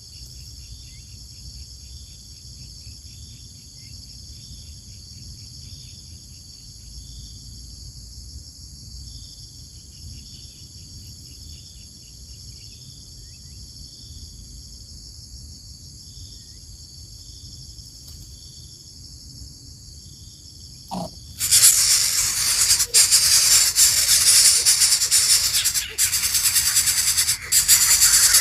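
Steady high insect trilling with a soft chirp repeating about once a second. About 21 seconds in, a much louder rattling, hissing noise starts and takes over.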